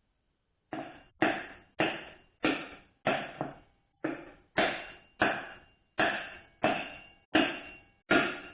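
A hammer tapping a metal part down into a 4L60E transmission case, a steady series of strikes about every two-thirds of a second, each ringing briefly, seating the part until it lines up.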